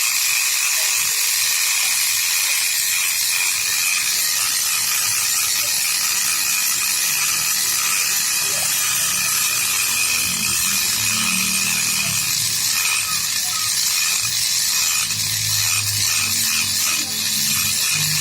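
A machine cutting metal, plausibly a Vespa cylinder being bored out: a steady, high grinding hiss with a thin whine over it and fine rapid ticking. A lower hum joins in about halfway through.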